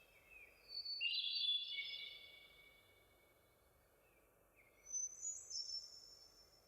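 Songbirds singing over faint steady background noise: one song phrase about a second in, and a second, higher phrase about five seconds in.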